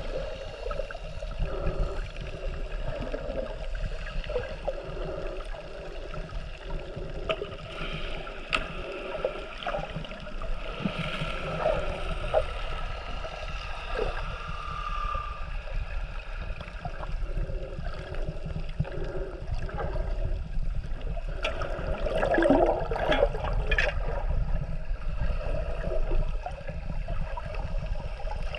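Water gurgling and splashing around a swimmer, with scattered knocks. About fifteen seconds in, a manatee gives a short, high squeak.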